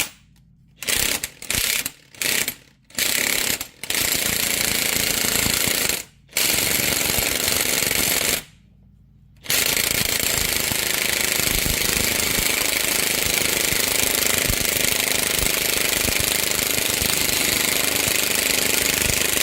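Electric impact wrench hammering as it drives a bearing press screw, pushing a universal joint's bearing cup out through the yoke. Several short bursts first, then longer runs with two brief pauses, and one long unbroken run through the second half.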